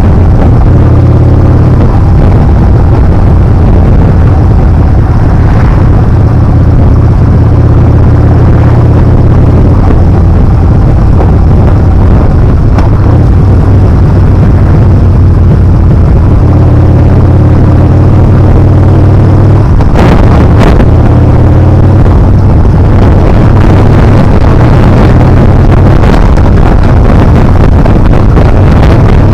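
Yamaha Bolt's air-cooled V-twin engine running steadily as the motorcycle is ridden, its note shifting a little partway through. There are two brief sharp knocks about twenty seconds in.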